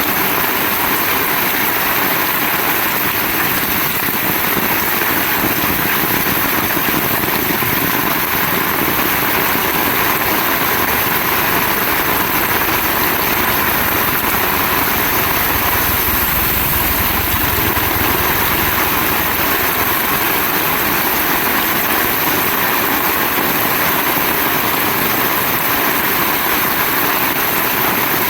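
Heavy rain pouring down in a steady, loud hiss. A low rumble swells briefly a little past the middle.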